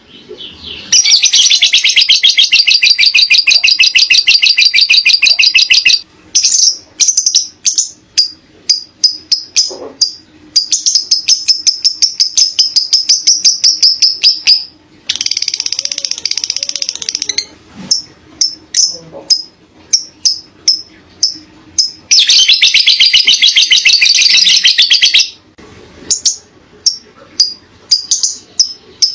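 Lovebird singing its long chattering 'ngekek' song: three rapid, high trills lasting several seconds each, near the start, in the middle and near the end, with runs of separate sharp chirps between them.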